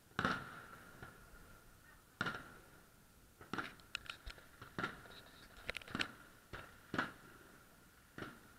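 Distant fireworks: an irregular string of about a dozen sharp bangs as aerial shells burst, some coming in quick pairs, each with a short fading tail.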